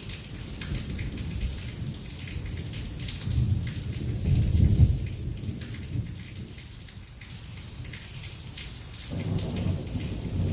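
Heavy rain falling steadily, with rolling thunder rumbling underneath. The thunder swells to its loudest about four to five seconds in, fades, and starts rumbling again near the end.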